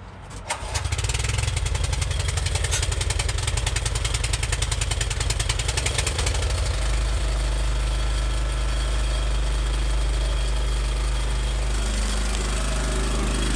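Small recoil-start gasoline engine cold-started with the choke on, catching on the first pull and running. It runs with a fast, uneven beat at first, then settles to a steadier, deeper note about seven seconds in.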